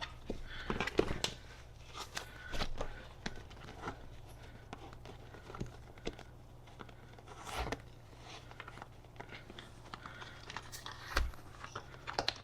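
Rustling, crinkling and scattered small clicks from a vinyl seat cover and foam being handled and pulled at on a mini bike's seat pan.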